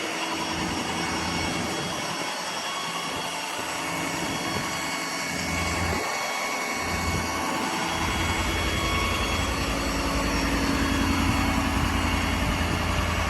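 6.7L Power Stroke V8 turbo-diesel of a 2014 Ford F-450 idling steadily, its low rumble growing stronger about eight seconds in.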